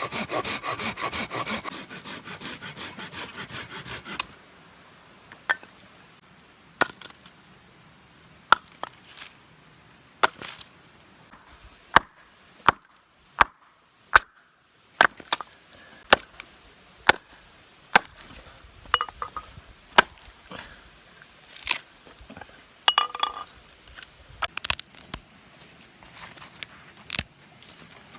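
Wood being sawn with quick back-and-forth strokes for about the first four seconds, then firewood being chopped and split: a series of separate sharp knocks and cracks, roughly one a second.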